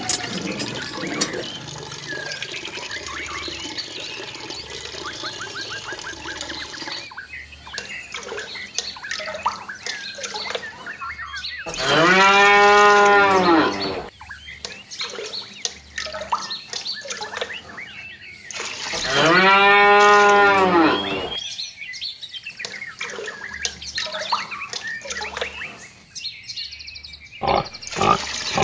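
Two long cow moos, each about two seconds, rising and then falling in pitch, the first about twelve seconds in and the second about eight seconds later.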